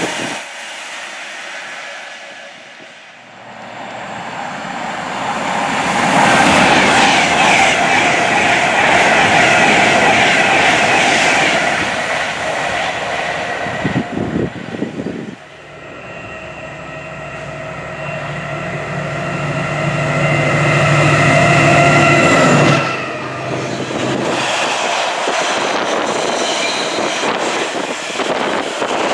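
A Class 390 Pendolino electric train passing through, its rush of wheels and air building to a loud peak and then fading. Then a locomotive-hauled container freight train approaches and passes: a steady locomotive note with several tones grows louder and cuts off sharply as the locomotive goes by, followed by the rumble and clatter of the container wagons rolling past.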